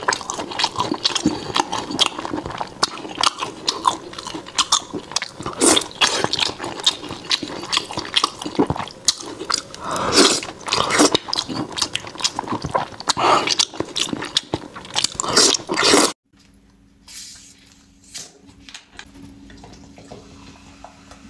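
Close-miked eating: wet chewing, smacking and slurping of soft braised meat in chili oil, irregular and continuous. About three-quarters of the way through it cuts off abruptly, and a much quieter stretch follows with faint sounds of cola being poured into a glass mug.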